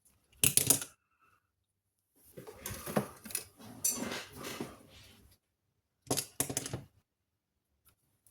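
Small metal tools clicking and clattering against a circuit board in three bursts, the longest a few seconds of rattling in the middle, as a capacitor is worked loose from a power supply board.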